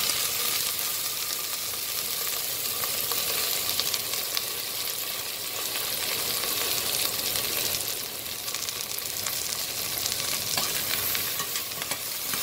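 Freshly washed, cut okra sizzling in hot oil in a stainless steel saucepan: a steady frying hiss with small crackles, loudest in the first moment after the wet okra hits the oil.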